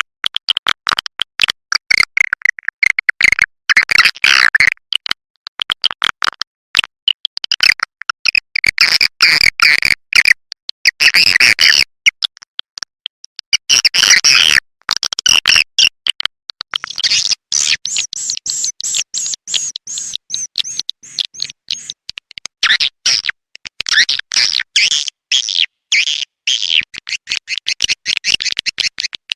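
Swiftlet call-sound recording, the kind played to lure swiftlets into a nest house: rapid, clicking twitters and chirps of edible-nest swiftlets in bursts of chatter with short gaps, getting denser and higher-pitched after about halfway.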